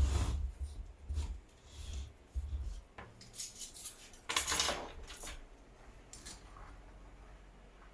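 Irregular clinks, knocks and scraping, like small metal parts and tools being handled, with one longer scrape a little past the middle.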